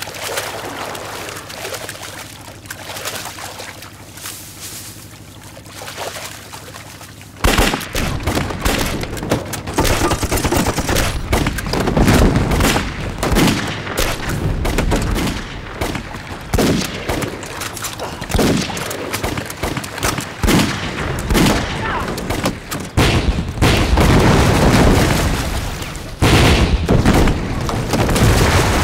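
Battle soundtrack of dense rifle and machine-gun fire mixed with explosions, breaking out suddenly about a quarter of the way in and continuing as a heavy, rapid barrage.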